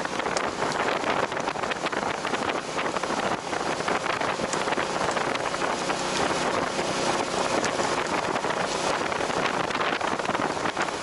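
Wind rushing steadily over the microphone of a camera on a moving motorcycle, with a faint engine hum underneath.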